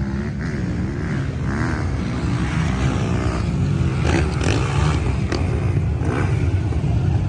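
Motocross bike engines running hard on the track, their revs rising and falling as the bikes accelerate and back off.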